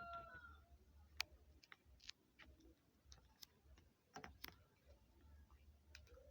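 Faint, scattered small clicks and taps from a plastic plug and its wires being handled while the wires are fitted into the plug's terminals.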